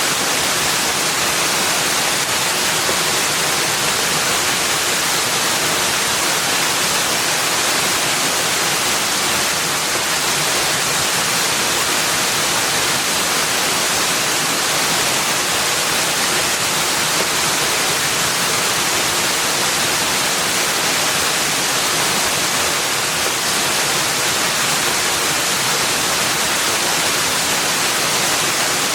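A steady, unbroken rushing hiss, bright and even throughout, with no birdsong or other events.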